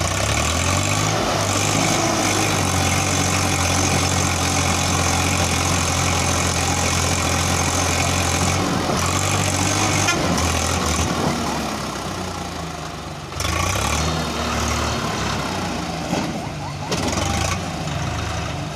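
Heavy diesel engine running hard under load, as a tractor and stuck lorry strain out of mud; the engine note holds steady for about ten seconds, then wavers and dips about two-thirds through before picking up again.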